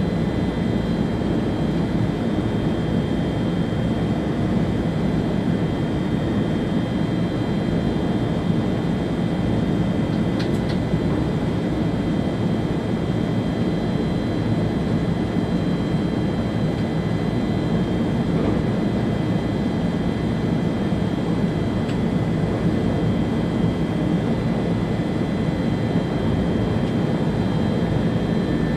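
Steady running noise of an ÖBB Railjet train at speed, heard inside the driver's cab: an even rumble with a few faint, high steady tones above it.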